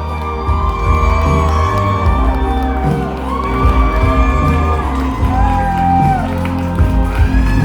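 Live band music with a sung melody of long held notes over a steady bass, with the crowd whooping.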